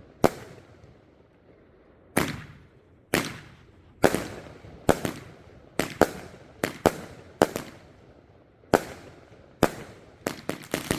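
A 'Beware of Dog' firework going off in a run of sharp bangs, each with a short fading echo, about fifteen in all at irregular spacing of half a second to a second, coming quicker near the end.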